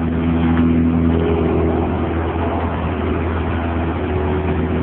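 Freshly rebuilt Mazda 13B twin-turbo rotary engine of a 1993 RX-7 idling steadily, moments after its first start following the rebuild.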